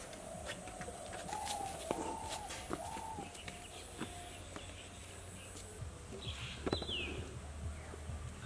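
Birds calling: a run of low, steady-pitched notes over the first few seconds and a short falling whistle about seven seconds in, with scattered light clicks and taps.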